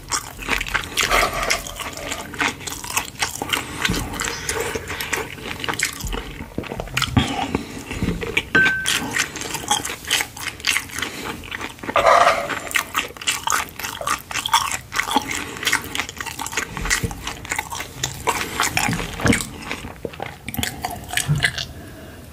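Close-miked eating of kimchi pork-belly fried rice: chewing with many irregular clicks, and a wooden spoon scraping and tapping the coated pan.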